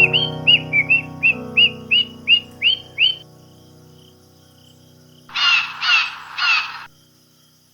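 Animal calls over soft background music: a run of short, repeated chirps about three a second, then three harsh calls near the end.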